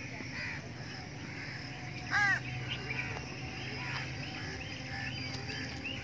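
Outdoor bird calls: one loud, harsh call about two seconds in, then a run of short, repeated chirps from small birds.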